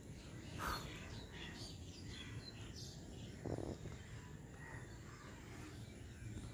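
Outdoor ambience: faint, scattered bird chirps and calls over a low steady background noise, with a couple of brief rustles.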